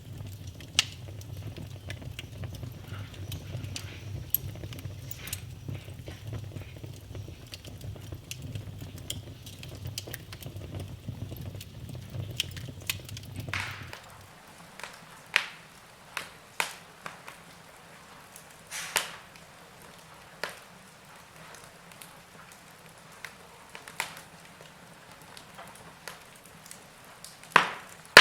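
Wood fire burning in a fireplace, crackling. A low rumble of flames runs under frequent small crackles until about halfway through. There the rumble stops abruptly, leaving a quieter fire with sparse sharp pops of the burning logs.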